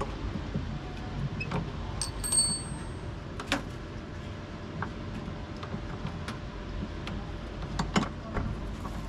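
Scattered sharp clicks and knocks over a steady low hum, the loudest about three and a half seconds in and a cluster near the end: the handling noise of parts and tools during a repair of a top-loading washing machine.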